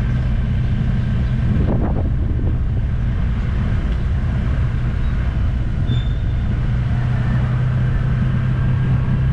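A vehicle's engine running at a steady speed with a constant low drone and road noise, heard while driving along.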